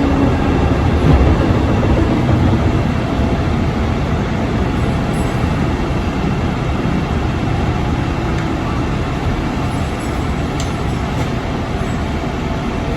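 Steady rumble of a Tokaido Main Line commuter train running on the rails, heard from inside the carriage.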